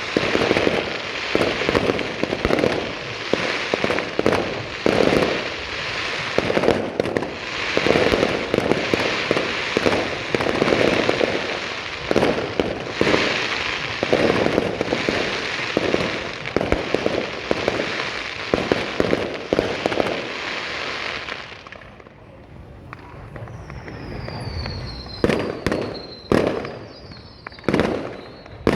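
Fireworks display: a dense, continuous crackle of bursting fireworks for about twenty seconds, then it thins out to a few separate sharp bangs and a falling whistle near the end.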